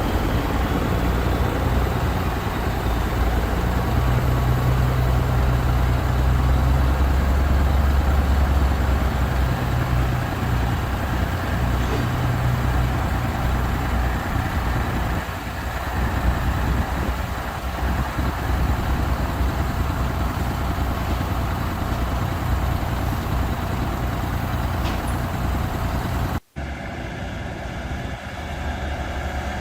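Heavy truck engine running steadily, a deep low hum that swells for a few seconds early on. Near the end the sound cuts out for an instant and resumes a little quieter.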